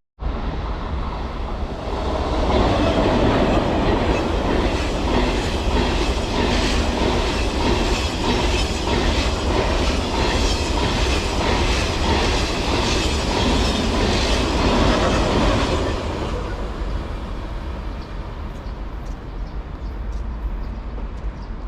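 Passenger train passing by, its wheels clattering rhythmically over the rail joints. It builds about two seconds in, stays loud for some fourteen seconds and fades away after about sixteen seconds, over a steady low rumble.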